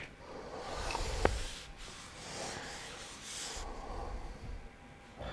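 Faint rubbing and scraping handling noises at a painting bench, with a single sharp click about a second in.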